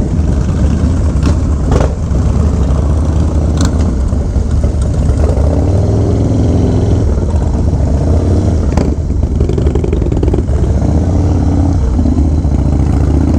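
Harley-Davidson Low Rider S V-twin with a Fab 28 exhaust and S&S 585 cams, running steadily under way with a deep drone.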